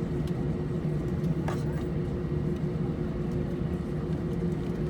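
Steady cabin drone inside an Airbus A320 on the ground: an even hum with a low steady tone and a higher one above it, from the aircraft's engines and air-conditioning. A faint click comes about a second and a half in.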